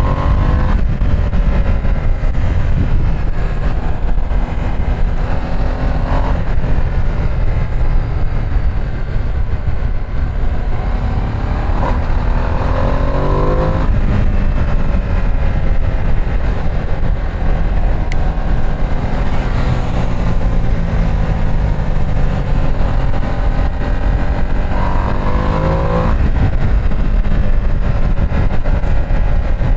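Ducati Streetfighter V2 S twin-cylinder engine under way, its pitch climbing as the bike accelerates and dropping back sharply at each upshift, about three times, over steady wind rumble on the microphone.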